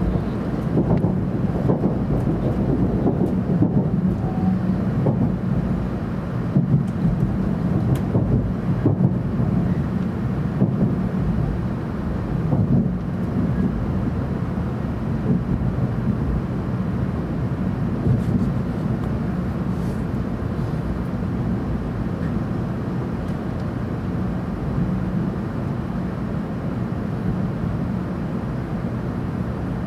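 700 series Shinkansen heard from inside the passenger cabin: a steady low rumble of the train running on the rails. Scattered knocks and clatters come through over the first dozen seconds or so, then the running sound evens out as the train passes alongside a station platform, slowing for its stop.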